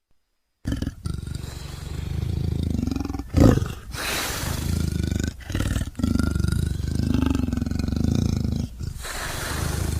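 Leopard calling in long, loud stretches broken by short gaps, after silence in the first half second; the loudest burst comes about three and a half seconds in.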